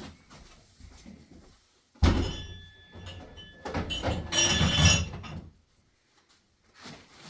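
A sudden thud about two seconds in, then about three seconds of scraping and creaking with a thin squeak, like something wooden being moved or pushed.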